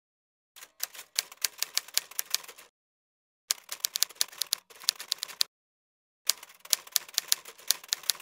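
Typewriter sound effect: rapid key strikes in three bursts of clacking, each about two seconds long, with short silent gaps between them.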